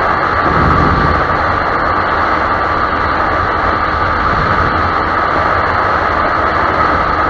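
Steady engine, road and wind noise from a moving motorcycle, picked up by the camera microphone, that cuts off suddenly right at the end.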